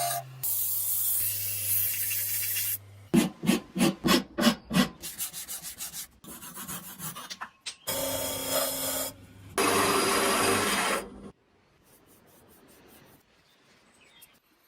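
Work on a rusty steel wrench, heard as a run of short cut clips: rasping strokes like filing or scrubbing, about three a second, between stretches of steady power-tool grinding or sanding. It goes quiet for the last few seconds.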